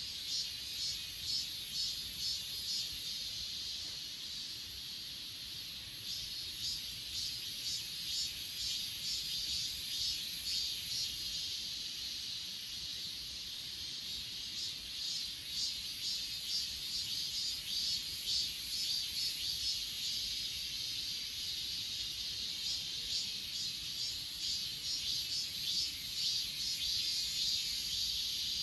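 Chorus of grass insects singing: a steady high-pitched buzz with rapid pulsing chirps over it that come and go in spells of a few seconds.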